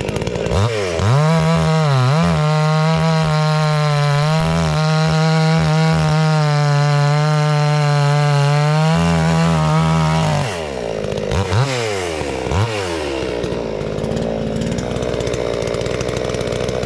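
A 60 cc-class two-stroke gas chainsaw is revved up to full throttle and held there for about eight seconds with a steady high engine note. It then drops back, is blipped twice and settles into idle.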